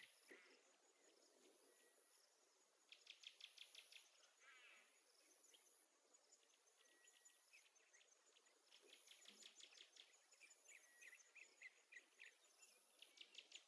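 Near silence, with faint high-pitched chirps and rapid trills coming and going in the background, in a cluster about three seconds in and again through the second half.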